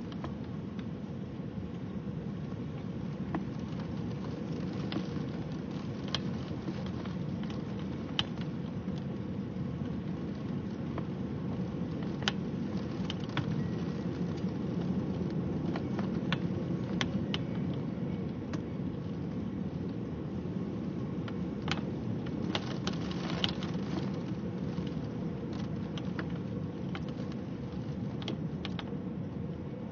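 Rain during a thunderstorm: scattered sharp drop ticks over a steady low rushing noise.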